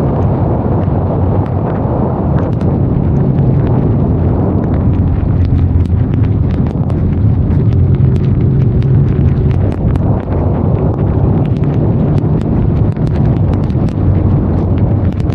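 Benelli Leoncino 500 Trail's parallel-twin engine running steadily under way, its low note holding a fairly even pitch, with wind rush and many small sharp ticks over it.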